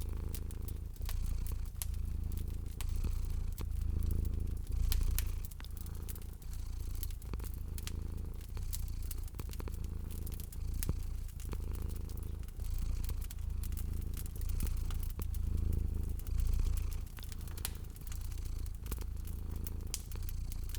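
Domestic cat purring, a steady low rumble that swells and fades with each breath about once a second, over a crackling wood fire with frequent sharp pops and snaps.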